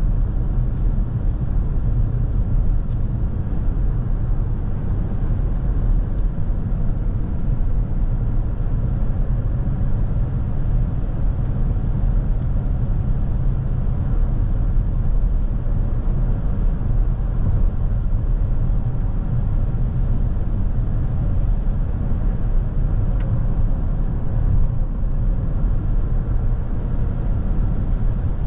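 Cabin noise of a Lexus NX350h hybrid SUV on the move: a steady low road-and-tyre rumble with a few faint ticks.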